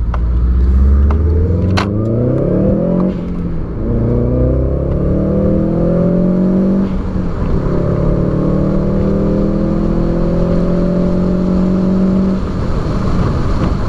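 Subaru WRX's turbocharged flat-four engine under hard acceleration through the gears, heard from inside the cabin. The revs climb, drop at shifts about three and seven seconds in, climb again, then fall away as the throttle is lifted near the end. There is a slight sputter around 4,000 rpm: the engine breaking up under load, a fault the title traces to old EVAP hoses.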